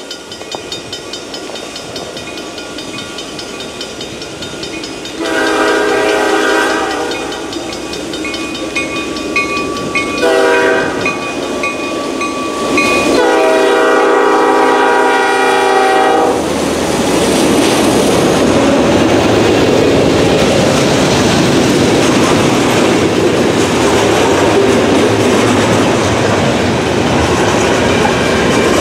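Freight train led by two GE C40-8M (Dash 8-40CM) diesel-electric locomotives approaching with engines running and sounding its horn: a long blast, a short one and a longer one. After the last blast the locomotives pass close by, loud, and the freight cars follow with a steady rumble and clickety-clack of wheels on rail joints.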